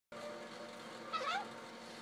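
A parrot giving one short call with a wavering pitch, a little after a second in, over a faint steady hum.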